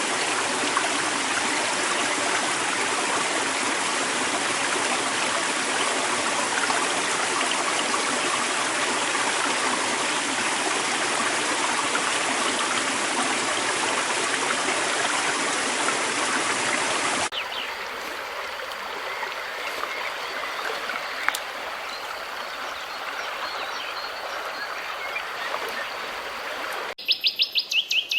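Stream water rushing steadily, then, after a sudden cut about 17 seconds in, a quieter outdoor background with faint bird chirps. Near the end a loud bird song of rapid repeated notes begins.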